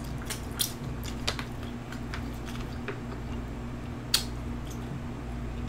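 Close-miked chewing and wet mouth sounds of a person eating, with a few sharp clicks, the loudest about four seconds in. A steady low hum runs underneath.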